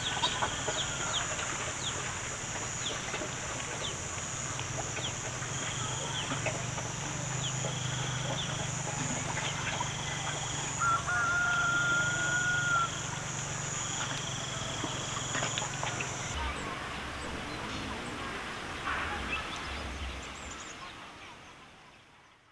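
Farmyard chickens clucking, with a rooster crowing, over a steady high drone that stops suddenly about two-thirds of the way through. The sound fades out near the end.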